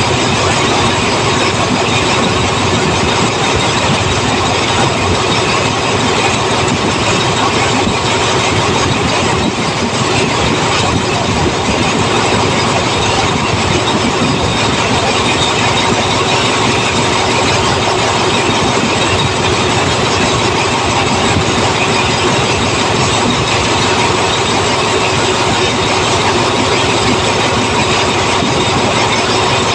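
A train running steadily, its engine and wheels on the rails making an even, loud noise with a few faint steady tones.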